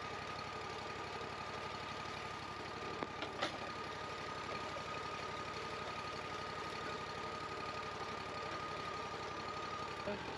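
An engine idling steadily, with a thin steady whine running over it and a couple of light knocks about three seconds in.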